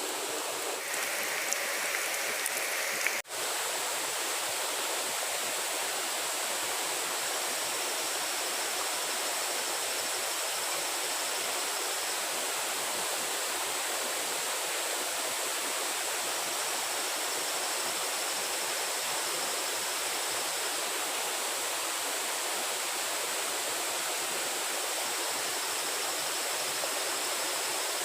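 Steady rush of running water, like a nearby stream, with a brief dropout about three seconds in.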